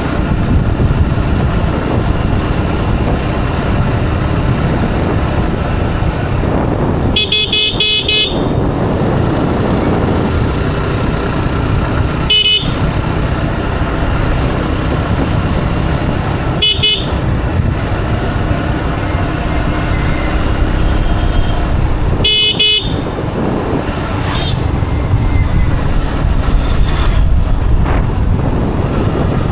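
Motorcycle engine running steadily under way, with road noise. A horn sounds four times: one blast of about a second, two short toots, then a half-second blast.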